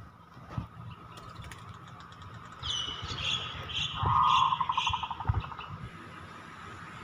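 Birds calling outdoors: a run of about five high chirps a little under half a second apart, overlapping a short fast trill lower in pitch. Steady outdoor background with a few low thumps.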